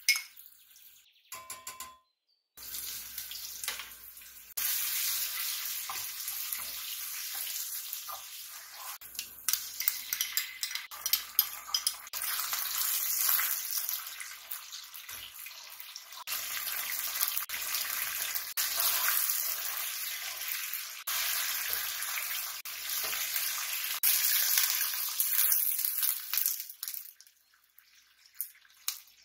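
Food sizzling in a hot pan, a steady high hiss with scattered clicks of a utensil stirring it, changing level abruptly a few times and stopping near the end.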